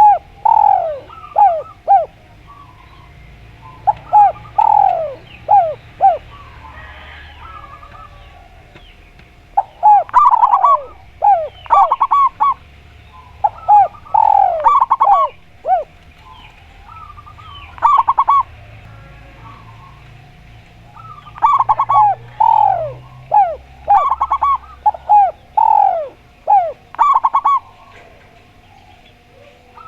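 Doves cooing in bursts of several quick, downward-sliding notes. The phrases repeat with pauses of a few seconds.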